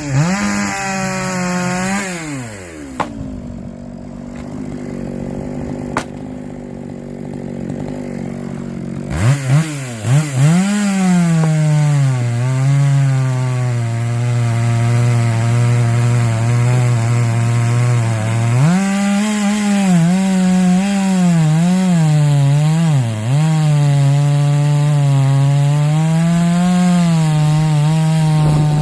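Chainsaw engine revving, then dropping back and running quietly for several seconds. About nine seconds in it revs up again and runs loud under load, its pitch sagging and recovering over and over as the chain cuts into the wood.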